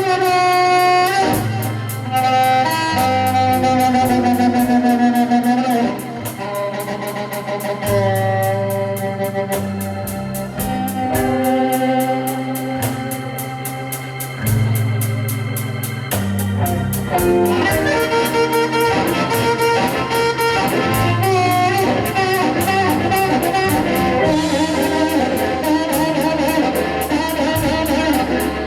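Live blues band playing an instrumental break, with sustained organ chords and lead lines over bass and a steady beat.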